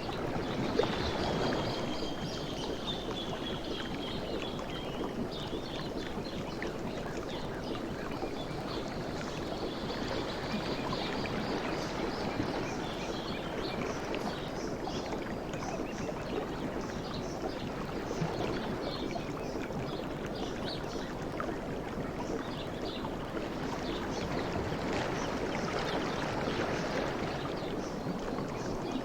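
Sea waves washing and lapping in a continuous hiss, swelling at the start and again near the end.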